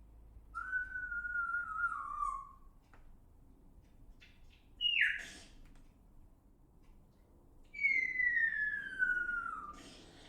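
Bird calls: two long, clear whistles, each slowly falling in pitch. The first comes about half a second in; the second, about three seconds before the end, falls further. Between them comes a short, sharp note that drops quickly in pitch.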